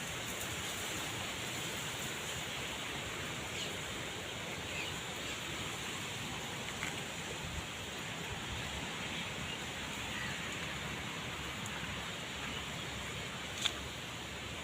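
Steady outdoor rushing noise, even and unbroken, with a few faint short chirps and a sharp click near the end.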